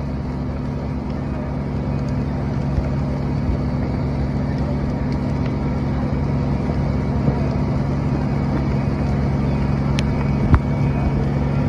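A steady engine drone with a low hum that holds at one pitch, over a rushing background noise. Two brief sharp clicks come near the end.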